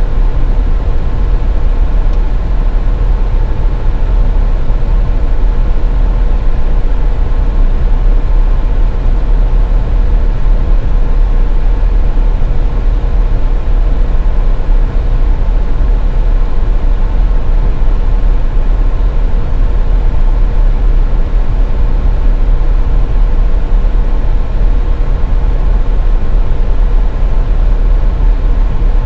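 Steady low rumble of a car driving along a highway, road and engine noise with a constant mid-pitched hum underneath.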